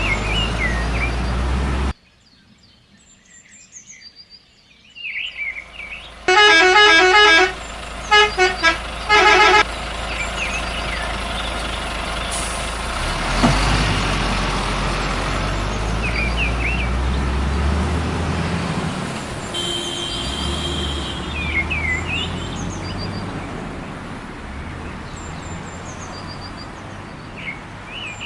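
Truck horn honking, one long blast and then three short ones, over a truck engine running steadily, with small bird-like chirps here and there.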